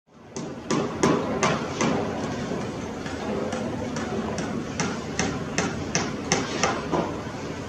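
A long series of sharp knocks, about two to three a second and unevenly spaced, over steady background noise.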